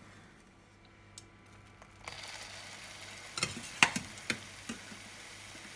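Freshly boiled, still-wet potato gnocchi dropped into hot olive oil in a frying pan. The oil starts to sizzle steadily about two seconds in, with a few sharp clicks over the next couple of seconds.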